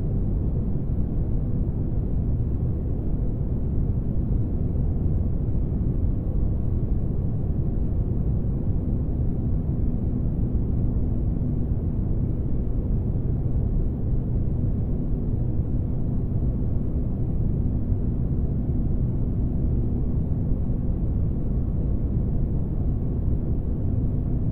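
Spaceship ambience noise: a steady, unbroken low rumble like engine noise heard from inside a large vessel, with a faint steady hum tone in it and nothing high-pitched.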